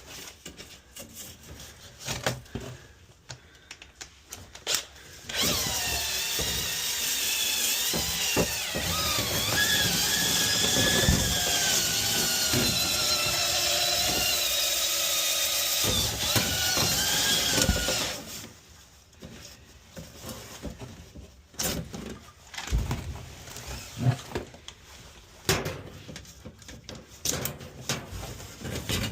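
A power drill runs for about twelve seconds, its pitch wavering up and down. Scattered knocks and clatter come before and after it.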